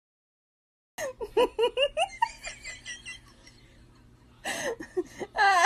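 Dead silence for about a second, then a person laughing in quick bursts, louder near the end.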